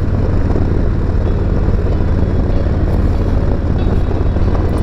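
Harley-Davidson Road Glide Special's Milwaukee-Eight V-twin running steadily through S&S MK45 slip-on mufflers, a deep even rumble with wind noise over it.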